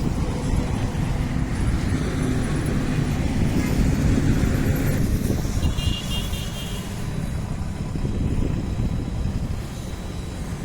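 Diesel engine of a JCB Vibromax soil compactor running, a steady low rumble.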